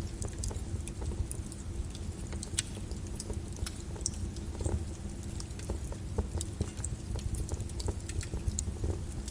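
Lava crackling and clinking with many irregular sharp clicks over a steady low rumble.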